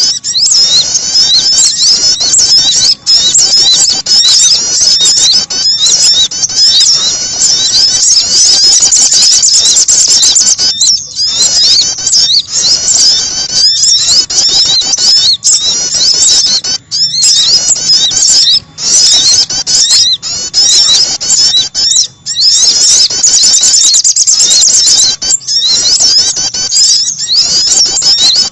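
Recorded lure call of small songbirds, sogon and prenjak: dense, continuous high-pitched chirping and twittering with many quick notes overlapping, broken only by a few brief pauses.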